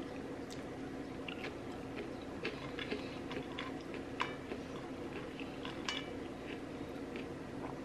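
Close-miked chewing of crispy KFC fried chicken: scattered crunches and wet mouth clicks, over a steady low hum.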